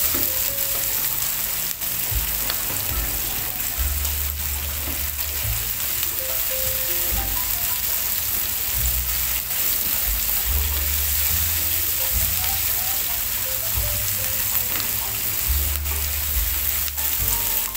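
Chicken sausage slices, shallots, garlic and chilies sizzling steadily in hot oil in a wok, stirred now and then with a silicone spatula.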